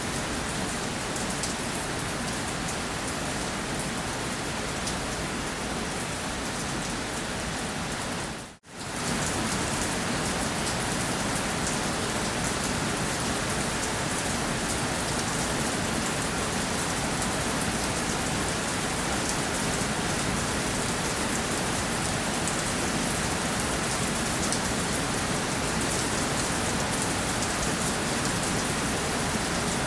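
Steady rain falling on a surface, a dense even hiss with fine drop patter. About a third of the way in it drops out briefly for under a second, then resumes as before.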